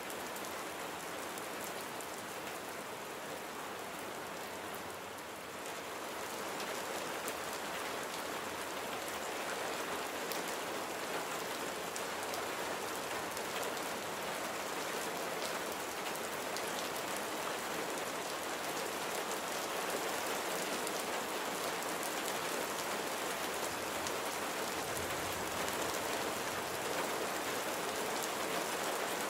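Steady rain falling on surfaces, with the sound of individual drops striking. It grows a little louder about six seconds in and stays there.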